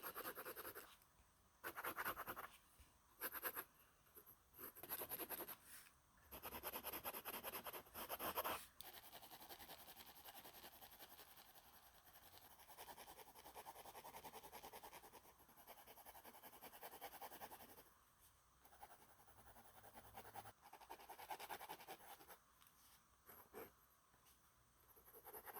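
Faint scratching of drawing strokes on sketchbook paper, coming in short runs with pauses between them.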